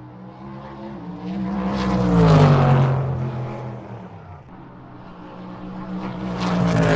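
A motor vehicle drives past: its engine hum grows louder, drops in pitch as it goes by about two seconds in, then fades. A second vehicle approaches near the end.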